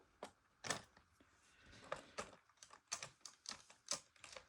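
Faint, irregular light clicks and ticks, about a dozen, spaced unevenly and coming closer together in the second half.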